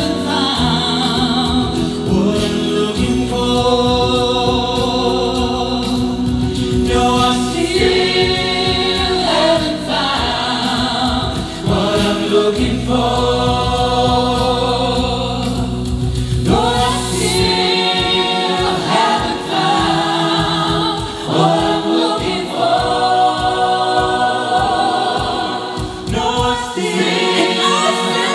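A vocal group singing in close harmony over a sustained low bass line. About two-thirds of the way through, a low beat comes in, about two pulses a second.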